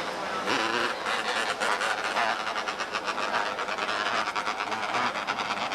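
Engines of small race cars running hard as they race around the track, a fast pulsing buzz.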